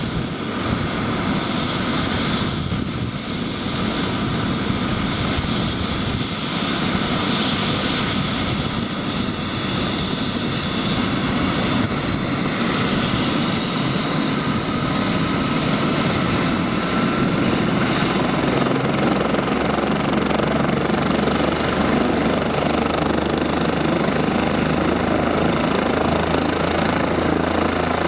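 Bell 407 helicopter running: the whine of its Rolls-Royce 250 turboshaft engine over the rotor noise. The high whine rises in pitch about halfway through, and a steadier low rotor drone settles in during the second half.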